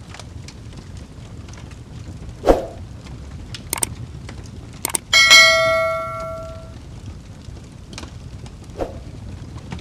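Fireplace fire burning with a steady low rumble and scattered crackles, a thud about two and a half seconds in, then about five seconds in a loud metallic clang that rings with several tones and fades over about a second and a half.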